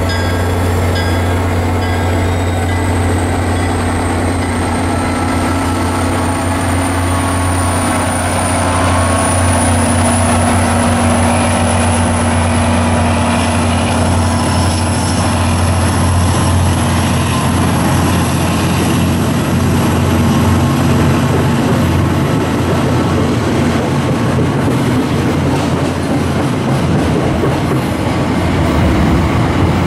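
MBTA commuter rail train, a diesel locomotive hauling coaches, rolling past at a platform: a steady low engine hum under the rumble of the cars on the rails. A thin high whine climbs slowly in pitch through the first twenty seconds or so.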